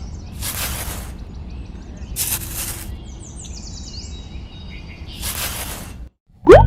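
Outdoor ambience: a steady low rumble with three hissing noise bursts about a second long, at roughly one, two and five seconds in, and a few bird chirps. Near the end it cuts off abruptly and a cartoon boing sound effect begins.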